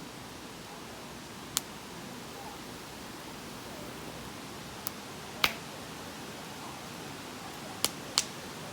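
Campfire wood crackling: five sharp, irregular pops over a steady hiss.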